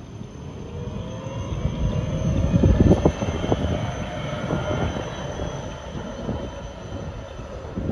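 A tram running in on its rails: a low rumble with the wheels clattering, loudest about three seconds in, and a faint whine over it.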